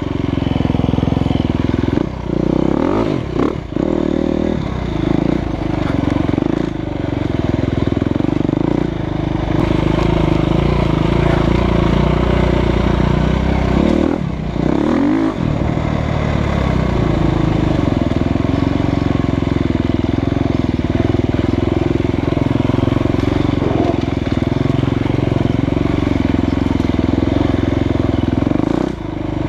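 2015 Husqvarna FE350's single-cylinder four-stroke engine running steadily under way on a dirt trail. The throttle is briefly backed off and picked up again, with the pitch falling and rising, about two to four seconds in and again about halfway through.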